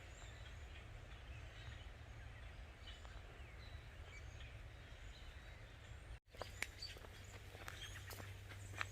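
Faint outdoor ambience: a steady low rumble with scattered faint bird chirps. The sound cuts out for an instant about six seconds in, followed by a few light clicks.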